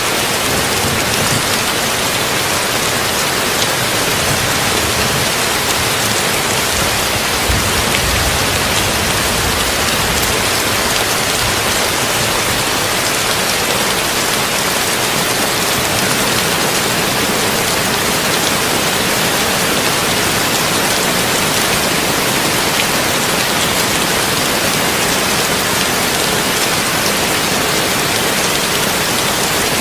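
Heavy rain drumming on a tin roof: a steady, dense hiss of drops with no let-up.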